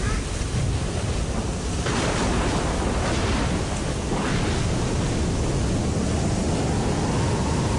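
Sea surf rushing steadily, swelling about two and four seconds in; a faint high tone comes in near the end.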